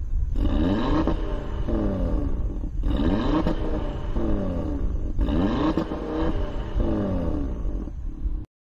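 Audi TT RS's 2.5-litre turbocharged five-cylinder engine revved three times while the car stands still, each rev climbing and falling back in pitch over about two seconds, over a steady low rumble. The sound cuts off suddenly near the end.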